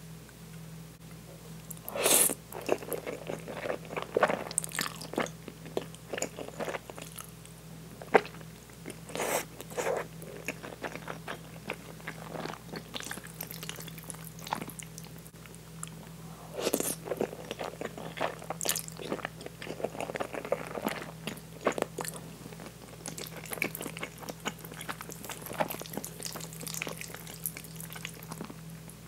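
Close-miked eating of meat sauce spaghetti: wet chewing and mouth sounds that come irregularly, with louder bursts now and then and a few sharp clicks.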